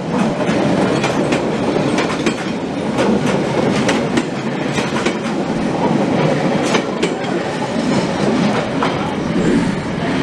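A passenger train's carriages rolling past at close range: a steady loud rolling noise with frequent clacks and clicks from the wheels on the rails.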